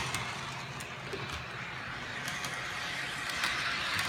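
MTH Bump and Go toy trolley running steadily around a circle of RealTrax track: a continuous motor whir and wheel rumble with faint ticks now and then.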